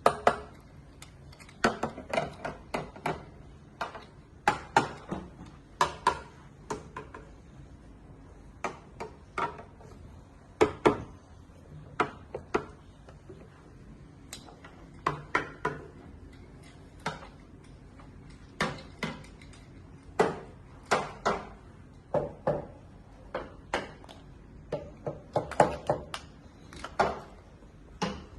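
Irregular sharp knocks and clatters of hard objects being handled and set down, sometimes several in quick succession, each ringing briefly.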